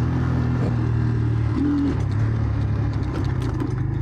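Enduro motorcycle engine running steadily at low revs, with a brief rise in pitch just under two seconds in.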